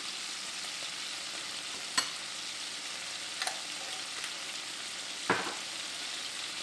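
Garlic, ginger, green onions and chili oil sizzling in oil in a nonstick skillet, a steady hiss as the aromatics toast over medium-high heat. A few sharp clicks break through, the loudest about two seconds in and another just past five seconds.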